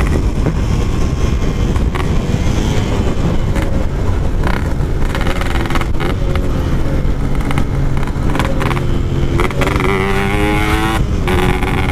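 Two-stroke Yamaha RX-King motorcycle engine running through its Packing Power exhaust while being ridden, the revs holding and then rising and falling a few times in the second half.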